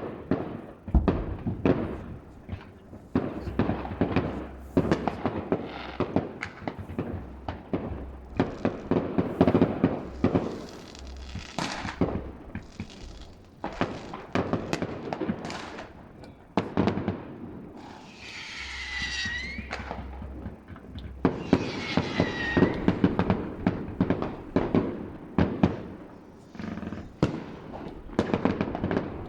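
New Year's Eve fireworks heard from a distance: a dense run of bangs and crackling from rockets and firecrackers. Past the middle, two falling whistles sound one after the other.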